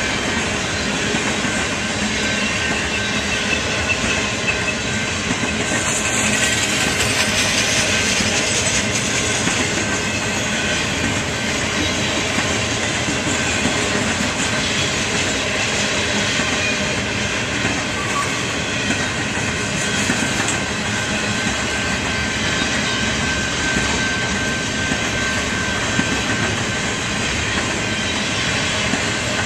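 Cars of an intermodal freight train, flatcars carrying truck trailers, rolling steadily past close by: a continuous rumble and clatter of steel wheels on the rails, with a faint thin squeal from the wheels at times.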